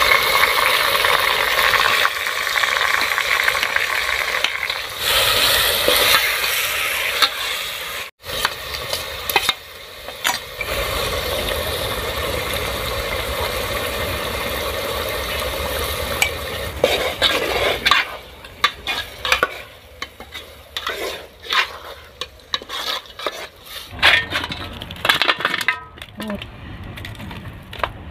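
Spice paste frying in hot oil in an aluminium pot, sizzling with a steady hiss while a steel ladle stirs it. In the last ten seconds the sizzle drops and the ladle gives irregular clicks and scrapes against the pot.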